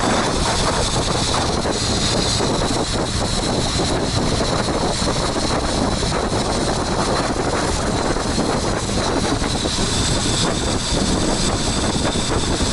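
Boat engine running steadily, a continuous loud drone without pauses.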